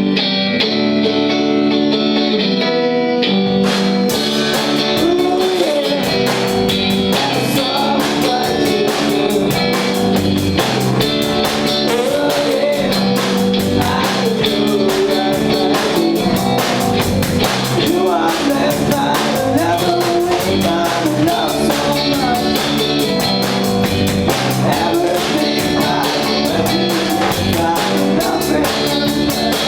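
Live garage rock band playing: electric guitar chords ring out alone, then the drum kit comes in about four seconds in with a steady cymbal beat under the guitar.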